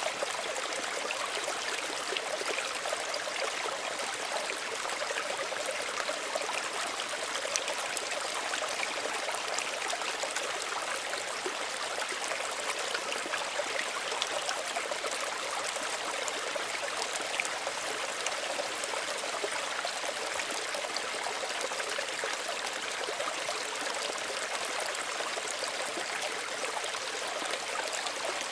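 Small stream running steadily over stones, a continuous gentle babbling with fine trickling detail and no breaks.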